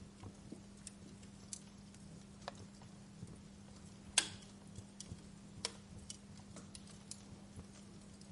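Fire crackling: irregular sharp pops and snaps, several a second at times, the loudest one a little past the middle, over a faint steady low hum.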